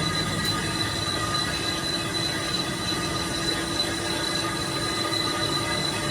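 Workshop machine working metal, a steady noisy run with a high, ringing metallic whine held throughout.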